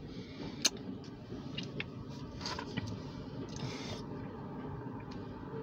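Covered grain hopper cars of a freight train rolling past, heard from inside a car: a steady low rumble with scattered clicks and knocks, the sharpest less than a second in.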